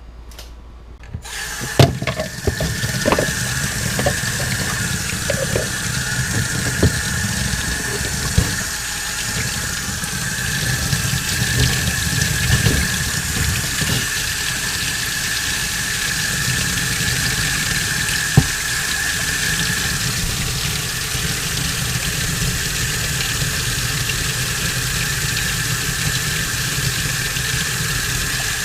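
Water running from a tap into a sink while differential gear parts are washed under it, starting about a second and a half in, with a thin steady tone over the rush of water. A few sharp knocks of the metal parts being handled.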